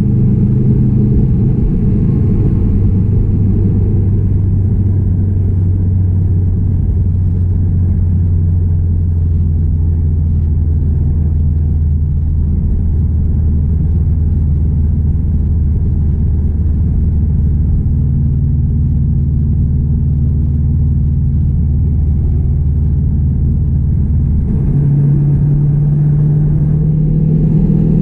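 2016 Subaru WRX STI's turbocharged 2.5-litre flat-four running at a steady cruise, a low even drone over road rumble. A few seconds before the end the engine note jumps and then climbs slowly as the engine speeds up.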